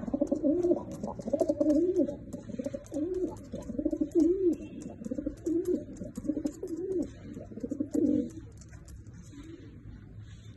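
Domestic pigeons cooing: a run of low coos, each rising and falling, about one a second, dying away about eight seconds in, with light clicks in the background.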